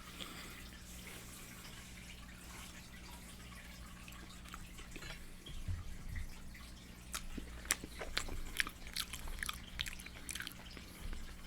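Close-miked wet mouth sounds of someone chewing fried chicken: loud lip smacking and sharp clicks. They are sparse at first and come thick and fast in the second half, over a steady low electrical hum.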